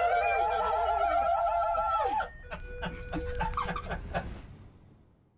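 A group of men shouting their war cry together: one long held yell with wavering pitch that breaks off about two seconds in. Scattered clicks and knocks follow as the sound fades out.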